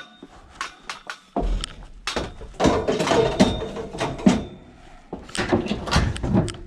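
Scrap metal bed frames clanging and rattling as they are pulled about, a dense run of metal knocks and clatter that starts about a second and a half in and is loudest in the middle.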